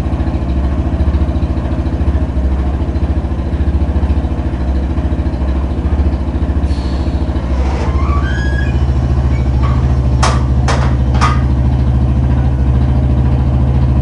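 Yamaha Fazer 250's air-cooled single-cylinder engine idling steadily through a straight-through exhaust, running with the strange engine noise the owner brought it in for. Three sharp clicks come about ten seconds in.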